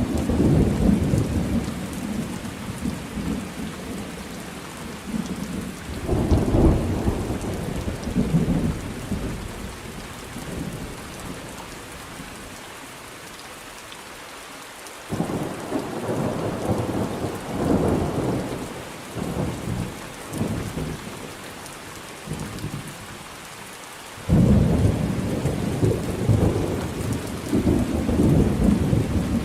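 Thunderstorm: steady rain falling, with repeated low rolling thunder rumbles. The thunder swells and fades several times, cutting in suddenly about halfway through and again near the end.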